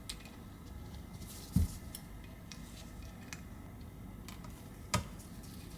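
Small clicks and taps of precision tools and tiny parts on a metal iPhone 11 frame as a flex cable is fitted and screwed down, with two sharper knocks, about a second and a half in and near the end.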